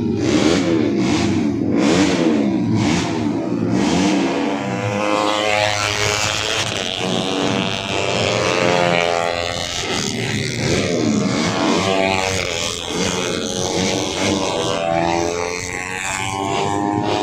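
Tuned 150cc four-stroke underbone racing motorcycles running at high revs on track, engine pitch climbing again and again as they accelerate through the gears, with overlapping bikes passing.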